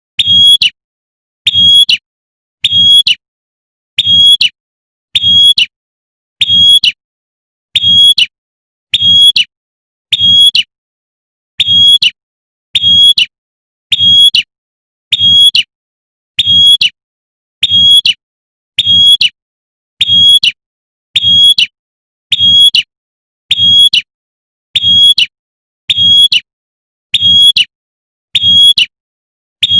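Female prinia (prenjak) giving its sharp "tembakan" call as a lure recording: one short, loud, high note about every second and a quarter, repeated evenly throughout, each with a faint low thud beneath it.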